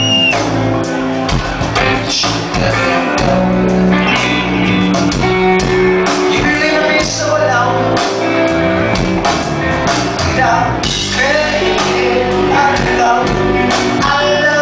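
A rock band playing live and loud in a concert hall, with guitars and drums and a singer's voice coming in over them.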